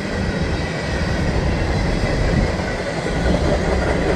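Norfolk Southern freight hopper train passing, a steady heavy rumble of wheels on rail with a faint high whine over it.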